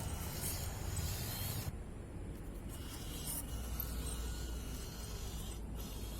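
Small-scale RC truck driving in sand: its electric drivetrain runs with a hissing scrabble of tyres and sand, which drops away sharply about two seconds in, leaving a lower steady hum.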